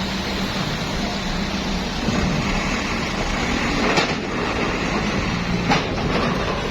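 Steady running rumble of a vehicle in motion with a constant low hum, broken by two sharp knocks, about four and five and a half seconds in.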